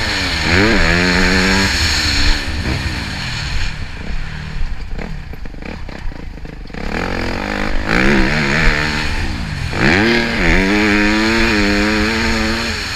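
Motorcycle engine revving up through the gears, the pitch climbing and dropping sharply at each shift. It eases off for a few seconds in the middle, then pulls hard through the gears again, over a steady rushing noise.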